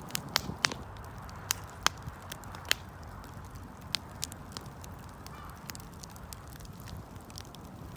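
Wood campfire crackling: sharp, irregular pops and snaps, most of them in the first three seconds, over a steady low rush of burning.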